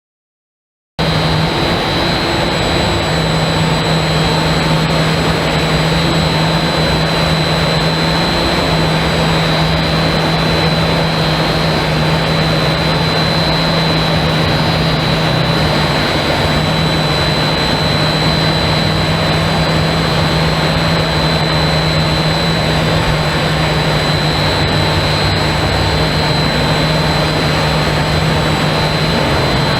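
Heat-treating furnace and quench tank equipment running: a loud, steady industrial noise with a constant low hum and a high whine, starting abruptly about a second in.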